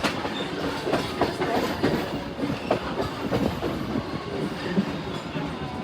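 Steam train carriages running along the track, the wheels clacking over the rails with irregular knocks and rattles throughout.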